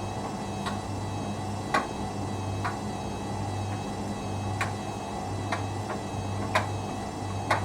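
Hoover Dynamic Next washing machine running its cycle: a steady low motor hum that swells and fades about twice a second, with about eight irregular sharp clicks from the tumbling drum.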